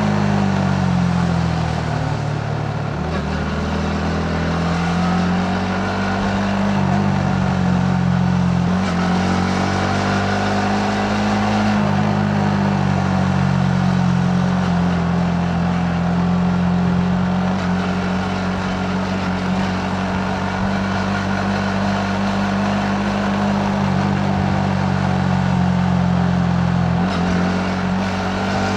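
Yamaha MT-15's 155 cc single-cylinder four-stroke engine running under way: the revs drop in the first couple of seconds, pick up again, and then hold fairly steady with a few brief dips.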